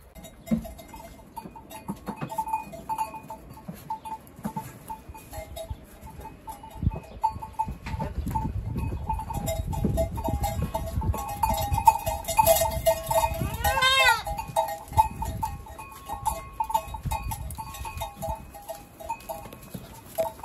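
Bells on a herd of goats clinking irregularly as the animals move, with one goat bleating once about two-thirds of the way through.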